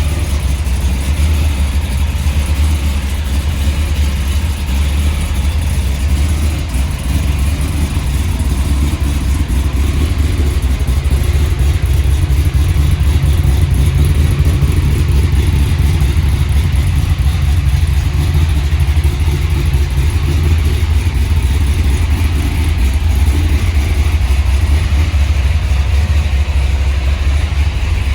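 1968 Dodge Charger restomod's engine and exhaust running at a steady idle, a continuous low rumble.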